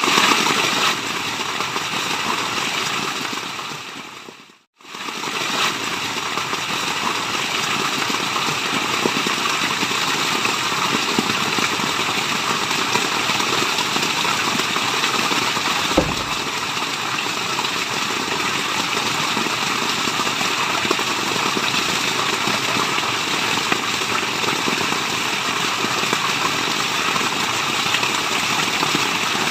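Steady rushing water used as white noise. It fades down to a brief silence about four and a half seconds in and swells straight back, like a loop joint. There is a single sharp click about sixteen seconds in.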